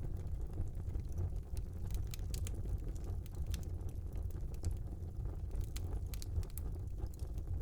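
Fire burning in a small fireplace: a steady low rumble with frequent small crackles and pops scattered throughout.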